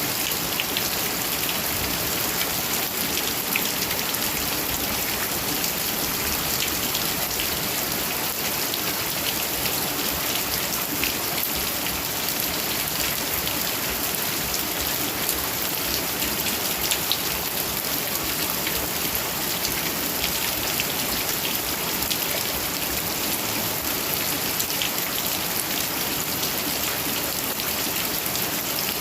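Heavy rain falling steadily and hard, with a constant hiss and many individual drops ticking on nearby surfaces.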